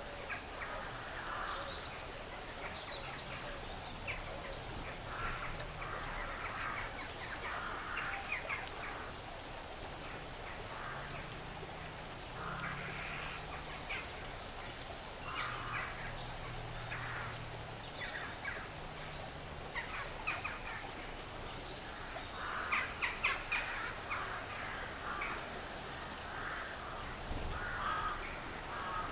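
Woodland ambience of squirrels feeding: repeated short bursts of quick crunching and scratching, busiest a little past the middle, among bird calls. A faint low drone runs underneath.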